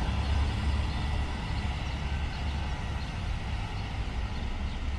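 Scania-chassis Neobus Spectrum Road coach running with a deep, steady rumble and road noise, easing slightly in loudness.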